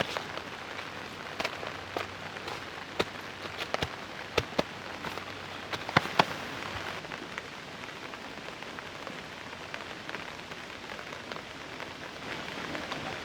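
Steady rain pattering on a tarp, with heavier drops tapping sharply every so often, most of them in the first six seconds.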